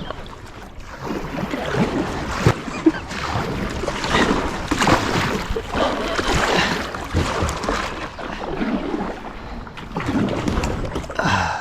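Kayak paddle strokes splashing through river water, the noise swelling and fading every second or so, with a couple of sharp knocks a few seconds in.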